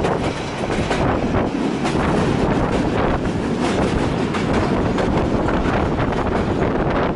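Steady rumble of a moving passenger train heard from inside the carriage, with wind noise on the microphone.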